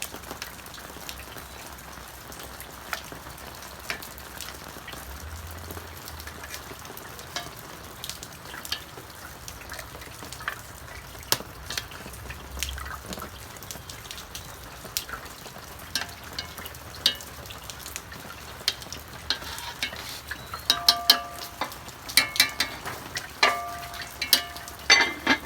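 Cooking oil sizzling in a pan on the stove, with frequent sharp crackles and spits. Near the end, metal utensils clink and ring against the pan several times.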